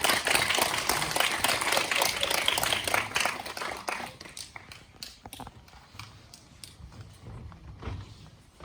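Audience applauding: dense clapping that thins out and dies away to a few scattered claps after about four seconds.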